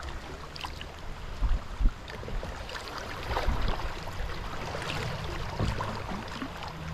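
Kayak paddling: the paddle blades dip and splash, and water drips in many small irregular splashes over a low rumble. There are two low thumps about a second and a half in.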